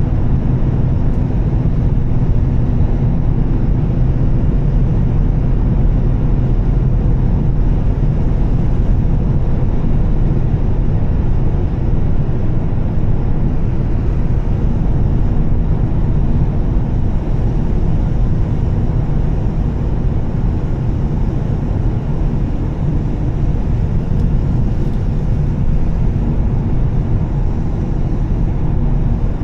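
Steady running of a Volvo S60 T6's turbocharged straight-six with a Heico aftermarket exhaust, with road and tyre noise, at an even cruise with no change in revs.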